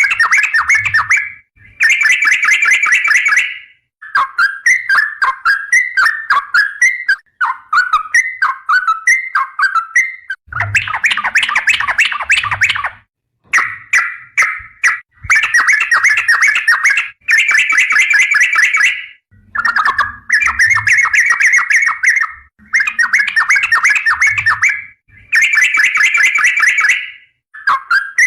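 Yellow-vented bulbul (trucukan) singing loudly in repeated bursts of rapid, bubbling, slurred notes, each phrase one to three seconds long with brief pauses between. A stretch of shorter, swooping notes comes about a third of the way in.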